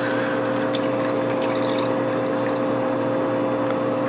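Water running steadily, with a constant hum, as the water reservoir of a single-serve pod coffee maker is filled.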